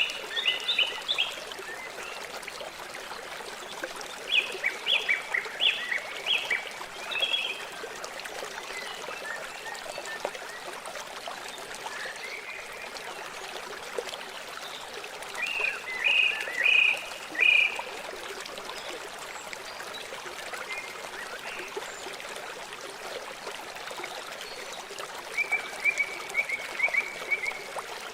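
River water flowing steadily, with a few bursts of short, high chirping calls several seconds apart: near the start, around four to seven seconds in, around sixteen to eighteen seconds in, and near the end.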